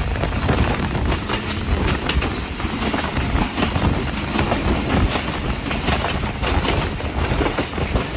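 Passenger train running along the track: a steady rumble with repeated clicks from the wheels passing over rail joints.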